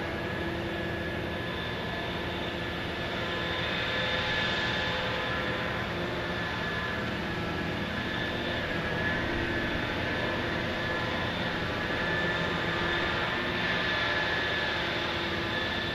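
Heavy dredging machinery running steadily: a diesel drone with a high hydraulic whine on top, swelling slightly twice.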